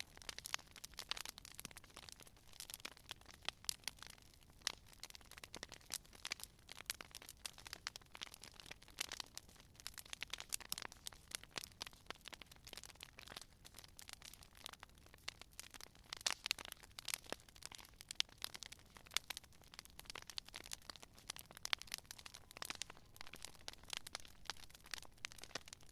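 Wood fire crackling: a continuous run of irregular sharp pops and snaps over a soft hiss.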